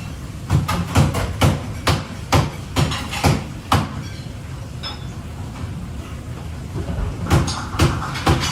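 Knife chopping on a cutting board, sharp knocks about two a second. They pause for a few seconds, with a single light clink, then resume near the end.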